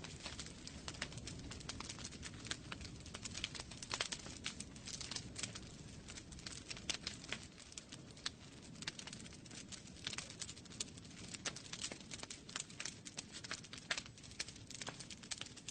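Wood fire burning in a fireplace, logs crackling and popping in many irregular sharp snaps over a low steady rumble of the flames.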